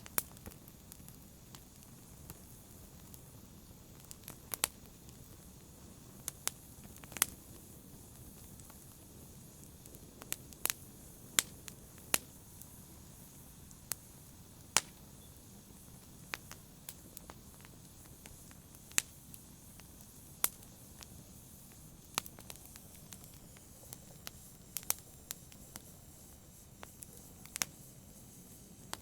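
Campfire burning: a soft steady hiss of flames with irregular sharp crackles and pops of burning wood every second or so, a few of them much louder.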